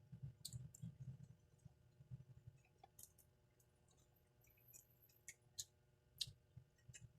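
Faint close-up chewing of fried chicken: soft, irregular mouth sounds with a few sharp clicks, quieter in the middle.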